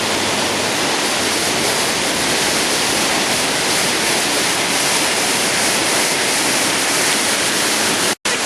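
Steady rushing of a river in flood, with the sound cutting out for a moment near the end.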